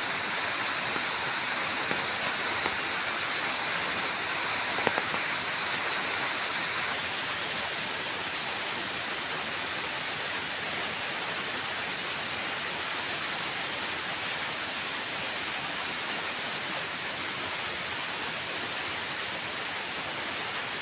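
Steady rain falling, an even hiss throughout, with a few sharp clicks in the first five seconds. The hiss changes slightly about seven seconds in.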